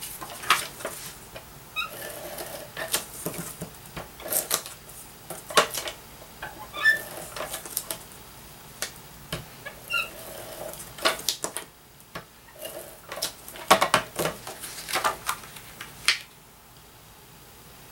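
Paper and cardstock pieces being handled on a table: irregular rustles, taps and clicks with a few faint short squeaks, stopping about 16 seconds in.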